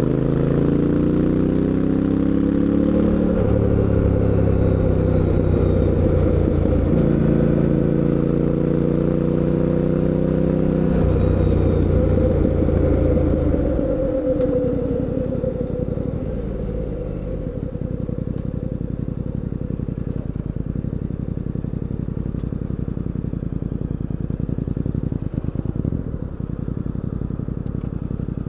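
Fantic Caballero 700 Scrambler's parallel-twin engine pulling hard. Its pitch climbs, drops at gear changes about 3 and 8 seconds in, and climbs again. After about 11 to 14 seconds the throttle closes and the engine note falls away into a steady, quieter low rumble.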